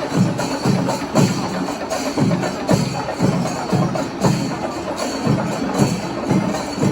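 Percussion music: drums struck in a steady beat about twice a second, with metallic jingling over them.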